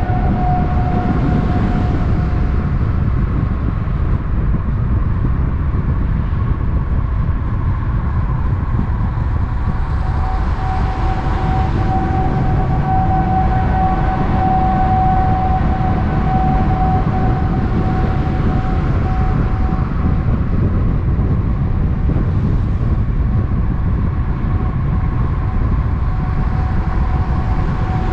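Steady vehicle noise at speed: a continuous low rumble with a steady whine that fades and returns.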